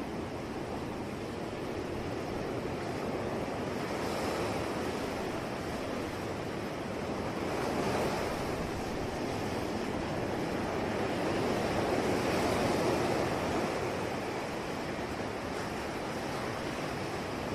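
Sea waves washing on a shore, a continuous surf rush that swells and eases slowly, a little louder around 8 and 12 seconds in, with some wind.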